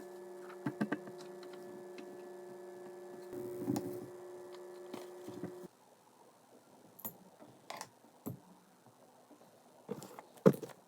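Scattered sharp clicks of a corner-rounder punch cutting the corners of the notebook's paper sheets. A steady low hum runs underneath and cuts off suddenly about halfway through. The loudest click comes near the end.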